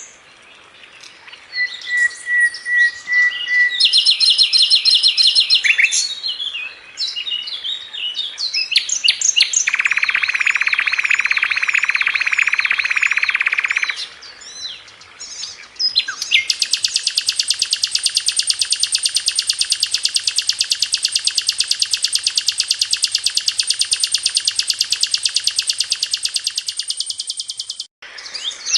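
Sikatan londo (brown-chested jungle flycatcher) singing a varied song of quick chirps, rapid high note series and short trills. From about 16 seconds in it gives one long, very fast rolling trill that lasts some eleven seconds.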